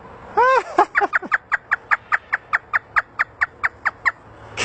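African grey parrot imitating a hysterical laugh: one arching call, then a fast run of short falling 'ha' notes, about six a second, for about three seconds.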